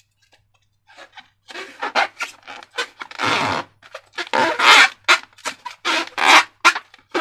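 Slime being squeezed and worked by hand: a run of short, irregular wet squishes and crackles, starting about a second in.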